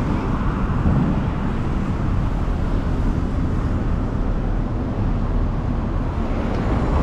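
Steady street traffic: cars passing on a city road.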